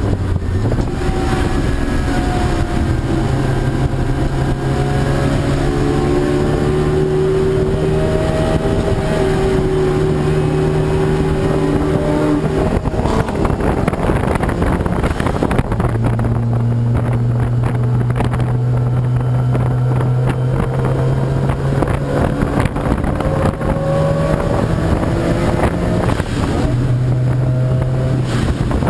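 Race car engines running on a circuit during qualifying, their pitch rising and falling as the cars accelerate, brake and pass, with a louder noisy surge about halfway through as a car goes close by. Wind buffets the microphone throughout.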